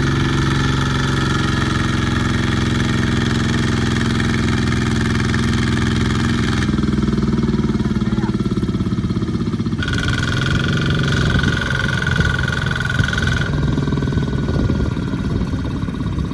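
Small farm tractor engines running steadily under load. The engine sound changes abruptly three times, and a steady high whine joins in for a few seconds past the middle.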